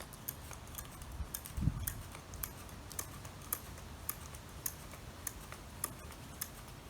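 Steady light clicking, about two clicks a second, with one dull low thump a little under two seconds in.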